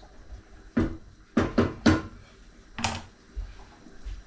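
A pot being handled on a gas stove: five sharp knocks and clunks over about two seconds, then quiet.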